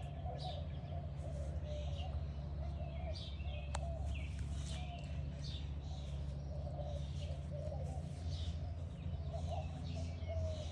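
Outdoor birds chirping, many short high chirps from several birds over a steady low rumble.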